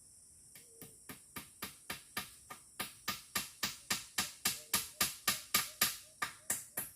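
A rapid, even series of sharp knocks, about four a second, growing louder and then easing off slightly near the end, over a steady high insect chorus.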